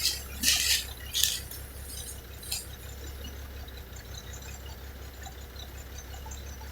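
1975 Kenworth LW924's diesel engine idling with a steady low rumble. Three or four short hisses come in the first couple of seconds, then just the steady running.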